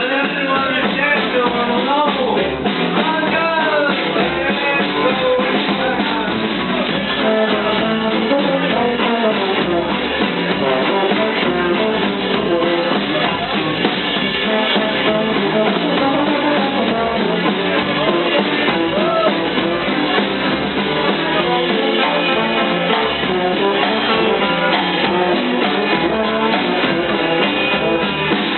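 A live swing band plays with guitar, drums and bass, at a steady loud level, with a wavering melody line over it early on.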